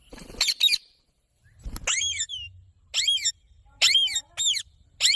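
Indian ringneck parakeet giving about five short, high-pitched squawking calls, roughly one a second.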